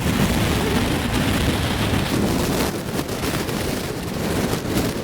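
Strong typhoon wind buffeting the microphone over heavy surf breaking against concrete wave-dissipating blocks: a loud, dense, rumbling roar.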